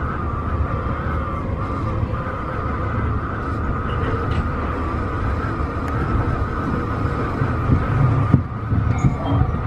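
Tobu 50090-series electric train running, heard from inside: a steady rumble of wheels on track with a continuous, slightly wavering high tone over it, and a few louder knocks near the end.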